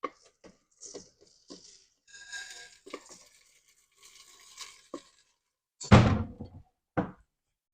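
Washed rice being tipped into a pan of hot olive oil to toast, with light clicks and short stretches of sizzling, then two dull thunks, the loudest about six seconds in and a smaller one a second later.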